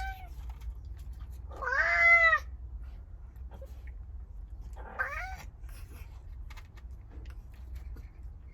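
A domestic cat meowing: a drawn-out, loud meow about two seconds in and a shorter one about five seconds in, each rising then falling in pitch, just after the tail of an earlier meow.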